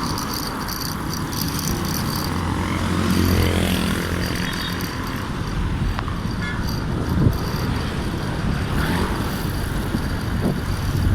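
Road traffic and wind noise heard while cycling on a road, with a motor vehicle's engine passing close by about three seconds in.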